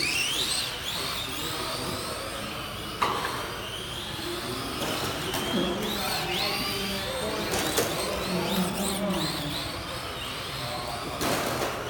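Electric motors of radio-controlled semi trucks racing, a mix of high whines that rise and fall over and over as the trucks speed up and slow down. A few sharp knocks come through, about three seconds in and near the end.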